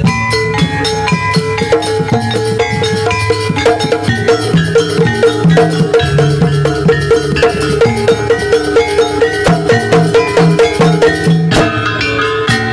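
Javanese jaranan (kuda lumping) ensemble music played live. Struck metal percussion repeats a quick, even note, about three to four strokes a second, over drums and steady low tones, with a louder accent near the end.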